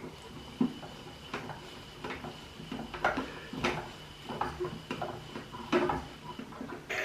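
Klein Miele toy washing machine running, with a faint steady whine from its small motor and irregular light clicks and knocks as the plastic drum turns.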